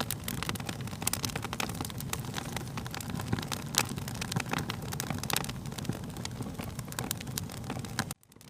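Wood fire crackling, with many sharp pops and snaps over a low, steady rumble of burning. The sound cuts out abruptly near the end and fades back in.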